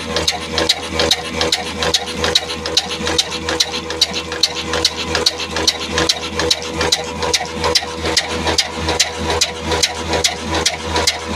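Old 24 hp black diesel oil engine running steadily, with an even knocking beat about four times a second.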